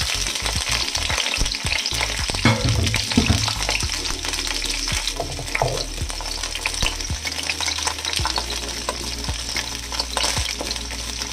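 Asparagus and strips of vegetarian meat sizzling in hot oil in a nonstick wok: a steady frying hiss with scattered spitting pops. Pieces are knocked into place in the pan during the first few seconds.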